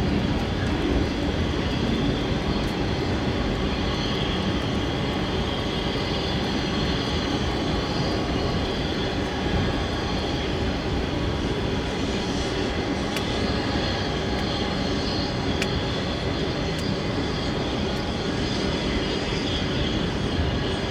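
Union Pacific autorack freight cars rolling past, a steady rumble of steel wheels on rail with a few faint sharp clicks in the second half.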